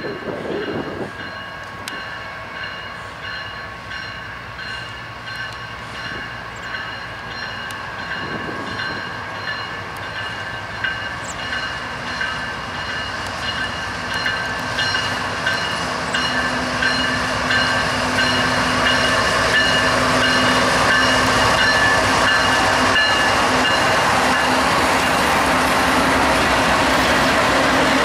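Empty grain train pulled by BNSF GE diesel locomotives approaching and passing close by. The engines and the wheels on the rails grow steadily louder until the locomotives are alongside, and steady high-pitched tones ring over the top throughout.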